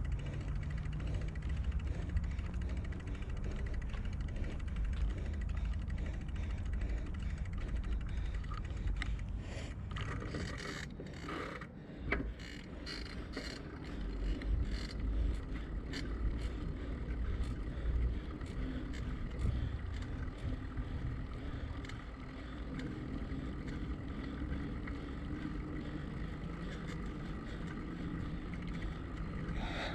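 Bicycle rolling along with a steady low rumble of wind and tyres; from about nine to twenty seconds in, a run of sharp ticks and rattles from the bike's mechanism.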